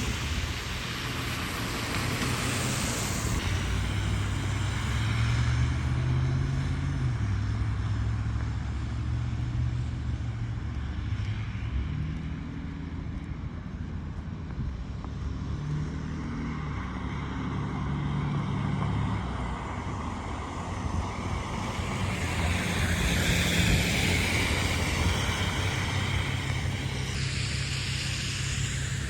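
Street traffic: vehicle engines rumbling, with tyre hiss that swells as vehicles pass, most clearly about two-thirds of the way through and again near the end.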